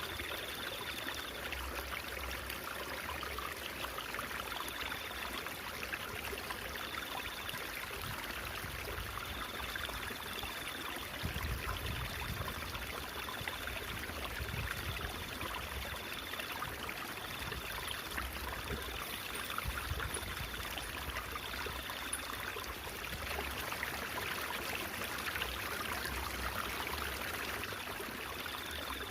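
Shallow stream babbling and trickling over stones, a steady, even rush of water.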